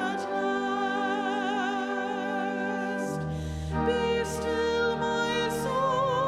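Church music: a voice singing with vibrato over held accompanying chords, a deep bass note joining about three seconds in.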